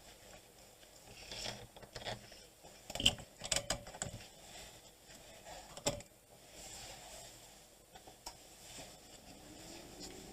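Scattered clicks and light rattles of hands handling leads and small hard parts on a workbench, with a cluster of sharper clicks about three seconds in.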